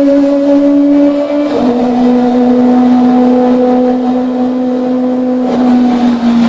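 Kawasaki ZX25R's inline-four engine running at a high, steady rev through an aftermarket exhaust, its pitch stepping down about a second and a half in and dropping slightly again near the end.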